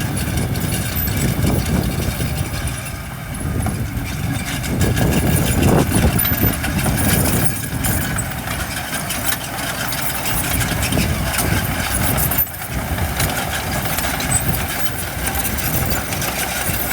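Heavy diesel engine of earthmoving machinery running, swelling and easing in loudness, with a brief break about three-quarters of the way through.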